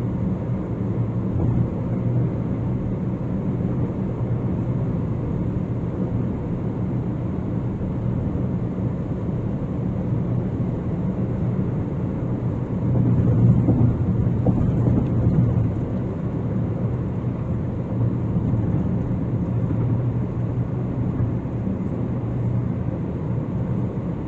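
Car driving along a concrete highway: steady engine and tyre noise, growing louder for a couple of seconds around the middle.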